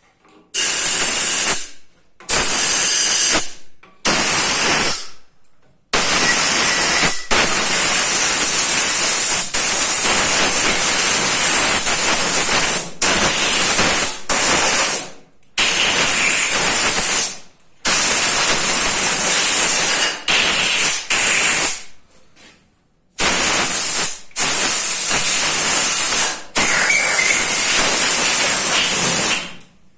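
Compressed-air blow gun blasting through the oil holes in a crankshaft's journals, a loud hiss in repeated bursts, some short and some held for several seconds. It is blowing dust and debris out of the passages so they are clean for engine assembly.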